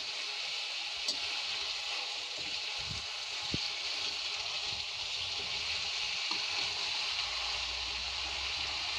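Potatoes, cauliflower and peas sizzling in spiced oil in a pan as a spatula stirs them: a steady hiss with a couple of brief knocks of the spatula against the pan.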